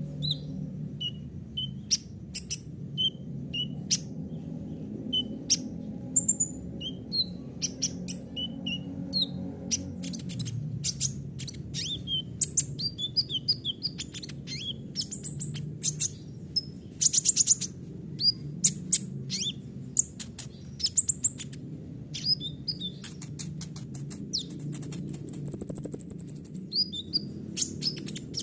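Kolibri ninja sunbird singing a fast, varied song of sharp high chirps, ticks and short trills, with a long high trill near the end. A steady low hum runs underneath.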